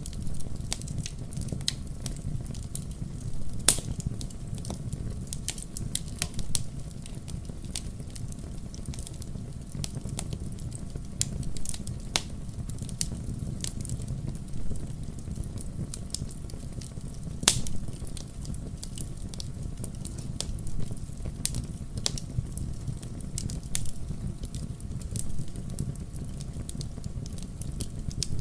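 Wood fire in a fireplace crackling, with irregular sharp pops over a steady low rumble. Two louder pops come about four seconds in and past the middle.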